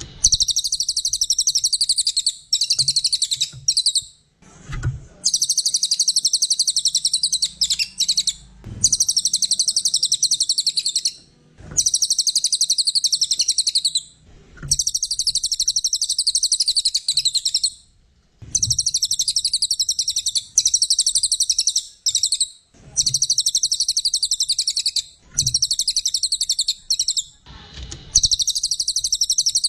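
A cililin songbird in full, vigorous song: long, fast, high-pitched chattering trills of two to three seconds each, repeated one after another with only short breaks between them.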